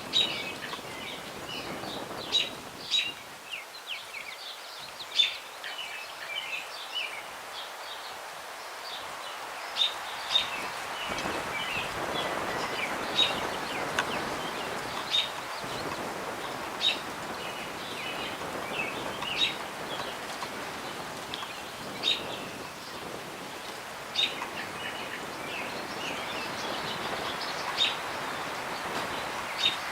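Small songbirds chirping in short, sharp calls every second or two over the steady rush of a breeze through the tree branches, which grows stronger about a third of the way in.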